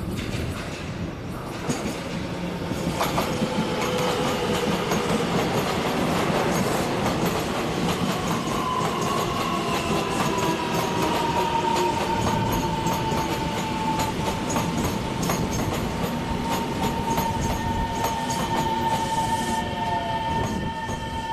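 A Taiwan Railway train running at the platform, growing louder over the first few seconds, then a steady loud rumble with wheels clicking over the rail joints. A whine slides slightly down in pitch about halfway through and then holds steady.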